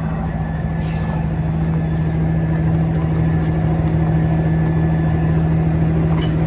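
Semi truck's diesel engine running steadily with a low, even hum, growing gradually a little louder.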